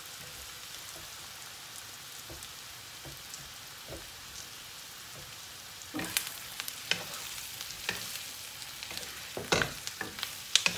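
Coated chicken pieces frying in a hot pan with a steady sizzle. From about six seconds in, a wooden spatula scrapes and knocks against the pan as the pieces are stirred.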